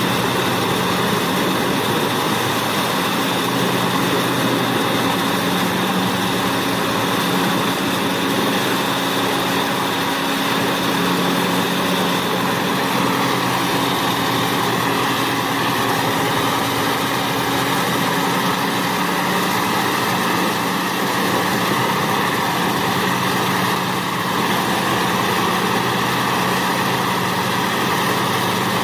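Large wood chipper running steadily under power, a continuous engine drone with a dense grinding hiss over it and no sudden breaks.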